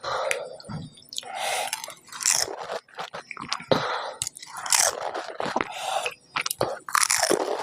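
A person eating panipuri close to the microphone: repeated crunches of the crisp hollow puri shells and wet chewing.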